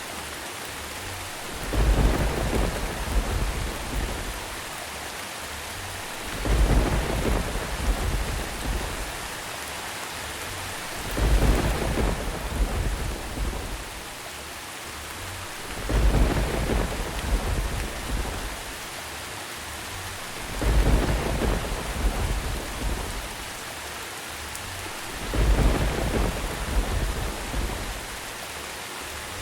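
Steady rain with rolling thunder rumbles that swell and fade about every five seconds, six times at even spacing.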